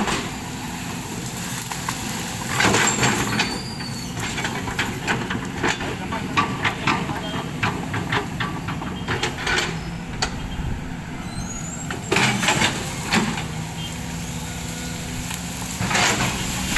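Engine of the heavy machine felling oil palm trunks running steadily, with several short louder bursts of noise along the way.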